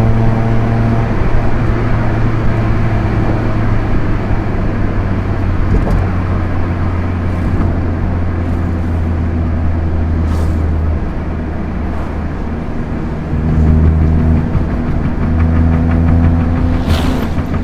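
Proton Inspira 1.8 four-cylinder MIVEC engine and road noise with the car cruising. The engine note sinks lower and plainer a few seconds in, then grows louder and fuller again over the last few seconds as the engine is put back under load.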